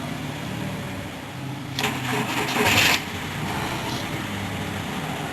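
2003 Volkswagen Jetta wagon's engine being cold-started: a low steady hum, then the starter cranks for about a second before the engine catches around three seconds in and settles into a steady idle.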